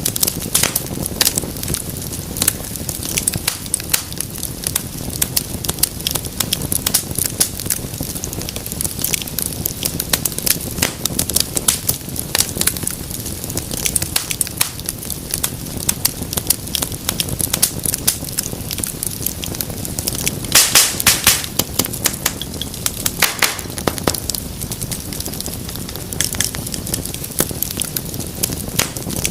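Wood fire crackling in a fireplace: an irregular run of small pops and snaps over a steady low rush of flame, with a denser flurry of crackling about two-thirds of the way in.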